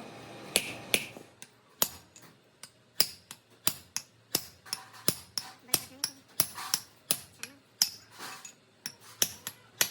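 A hammer striking metal in a steady run of more than twenty sharp blows, about two to three a second. Each blow rings briefly.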